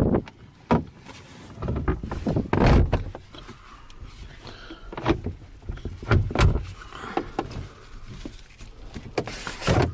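Irregular knocks and thumps with rustling between them.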